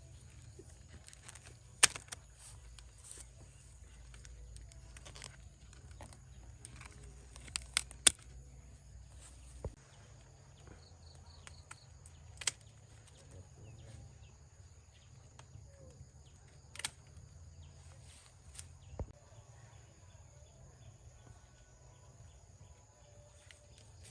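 Scattered sharp clicks and knocks, the loudest about two seconds in and a pair about eight seconds in, over a low steady rumble and a faint steady high-pitched whine.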